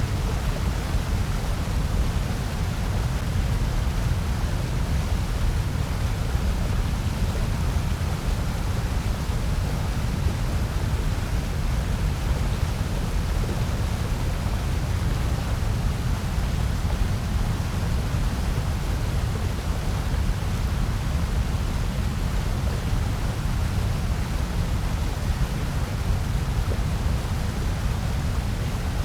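Electronically generated noise of the kind sold as white noise for sleep and focus: a steady, unchanging hiss with most of its weight in a deep low rumble.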